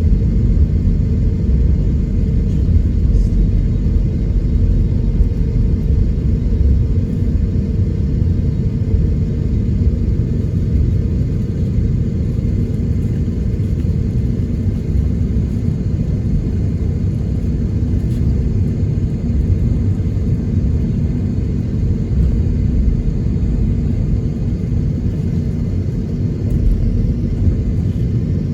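Steady low rumble heard inside the cabin of an Airbus A321neo taxiing, from the jet engines at taxi power and the airliner rolling on its landing gear.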